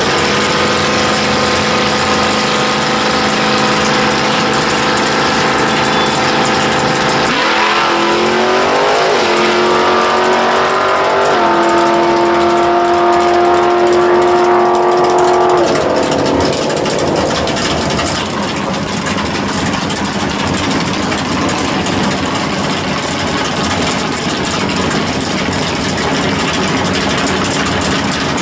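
Drag car engine idling, then revved about seven seconds in, held at a steady higher speed for several seconds, and dropped back. After that comes a loud, even rushing noise with no clear engine note.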